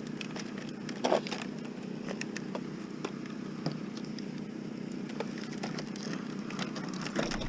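Knife working at an electrical cord being cut off scrap: scattered light clicks and scrapes, with one sharper click about a second in, over a steady low outdoor hum.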